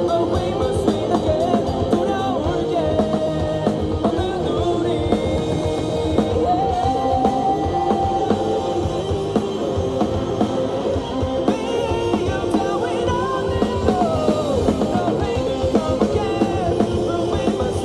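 Live rock band playing loudly: drums, guitars and a steady dense mix, with a voice singing over it.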